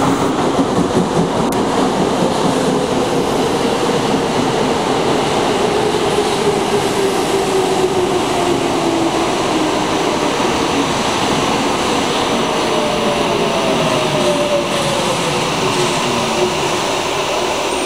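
Electric commuter train running into an underground station platform and braking to a stop: a steady rumble of wheels on rail with motor whines that slowly fall in pitch as it slows.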